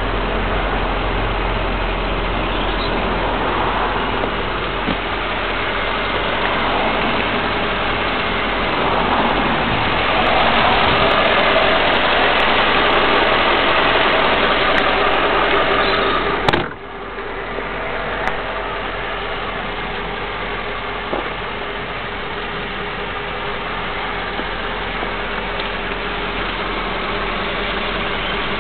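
Mercedes CLK 430's V8 engine running, louder for several seconds in the middle, then dropping suddenly about two-thirds of the way through to a steadier, quieter run close to idle.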